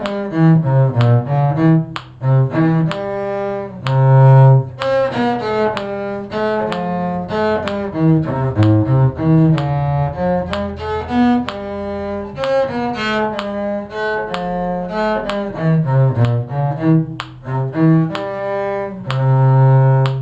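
Bowed string instruments playing a short tune in parts, a melody over a moving low line in the cello range. The playing stops right at the end.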